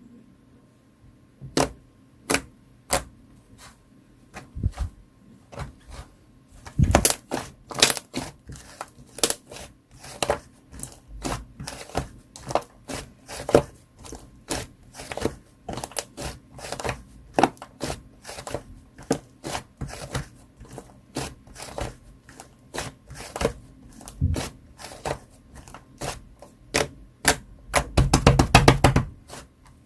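Thick, chewy slime being squished and pressed by hand, giving a string of sharp clicking pops. The pops come sparsely at first, then frequently, with a fast flurry near the end.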